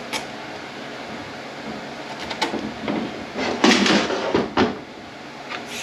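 Metal parts of a 10R80 automatic transmission being handled on the bench: a few light clicks about two seconds in, then louder scraping and clunks a second or so later.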